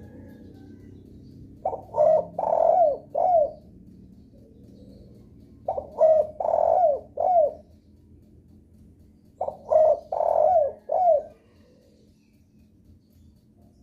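Spotted dove (derkuku) cooing as a lure call: three phrases of a few coo notes each, the third note of each phrase the longest, repeated about every four seconds.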